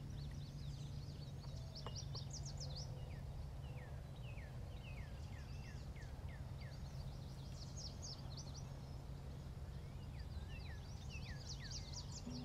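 Small birds calling: quick downward-slurred notes and rapid high chirps in three bunches, over a steady low background hum.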